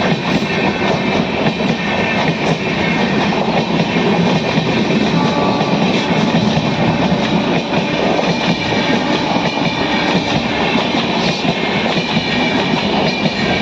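Train running on the rails: a loud, steady running noise that carries on without a break.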